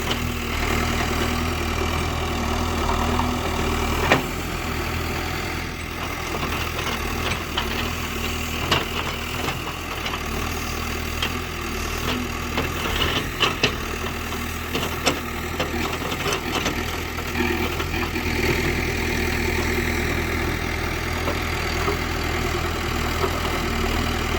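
Heavy diesel engine of earthmoving machinery running steadily at low revs, with a few sharp knocks and clanks scattered through.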